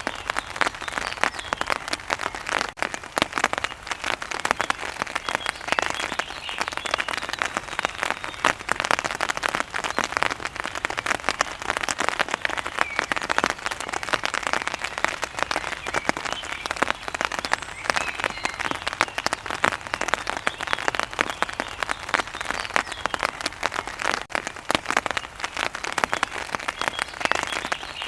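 Steady rain, a dense, even patter of countless drops striking a surface, with no let-up.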